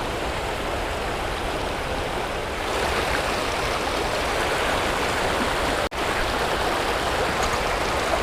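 Creek water rushing steadily over a rocky spillway waterfall. It grows a little louder about three seconds in and cuts out for an instant about six seconds in.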